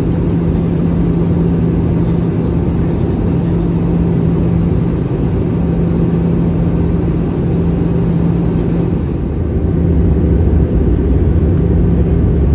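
Airbus A320 cabin noise in flight: a steady rumble of airflow and CFM56 engines with a steady low hum, getting a little louder about ten seconds in.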